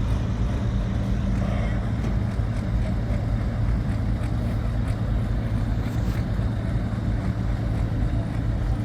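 Tractor engine running at a steady pitch, without revving.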